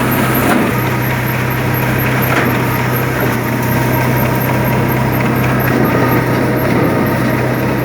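New Holland tractor's diesel engine running steadily with a constant low hum.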